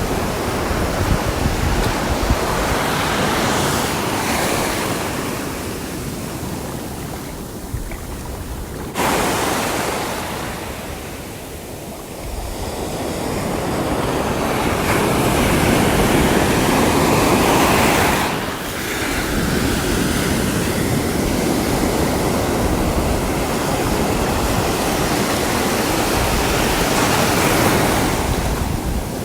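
Sea waves breaking and washing ashore, the surf swelling and ebbing over several seconds at a time, with a sudden surge about nine seconds in.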